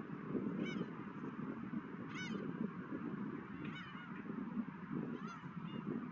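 Seagulls calling: about four short, arched cries, roughly a second and a half apart, over a steady rush of wind.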